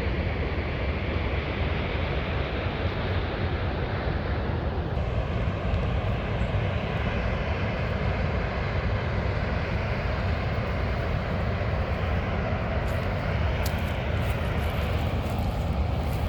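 Steady drone of a vehicle on the move: engine and road noise, even throughout, with a few faint clicks near the end.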